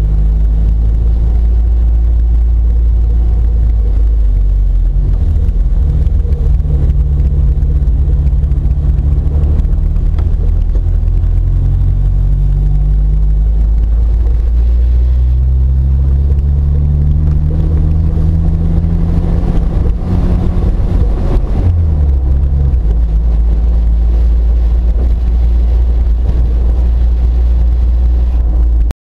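1993 Jeep Wrangler YJ's engine running as the Jeep drives, heard from over its hood with a low rumble. The engine pitch climbs steadily a little past the middle as it picks up speed, then drops back down soon after.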